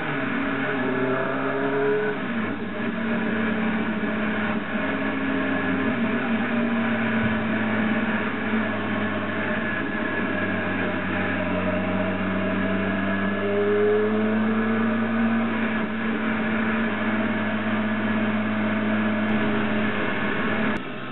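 Motorcycle engine running on the move, its pitch rising and falling with throttle and gear changes.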